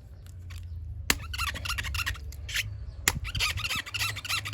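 Plastic being rubbed and squeezed by hand, giving a rapid run of short squeaks that begins about a second and a half in. Two sharp clicks come about a second in and again about three seconds in.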